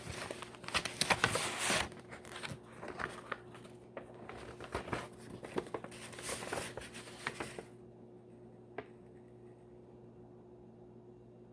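Paper rustling and crinkling as letters and envelopes are handled and leafed through, in irregular bursts that stop about eight seconds in. One small click follows a second later.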